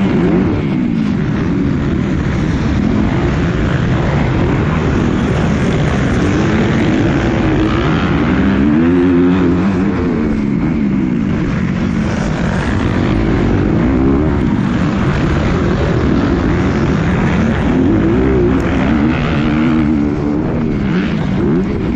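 Motocross bike engine revving hard, its pitch rising and falling several times as it accelerates and backs off around the track.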